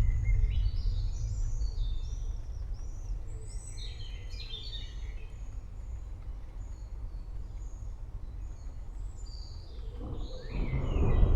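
Songbirds chirping and singing over the tail of a low thunder rumble that fades away; about ten seconds in, another rolling rumble of thunder builds up beneath the birdsong.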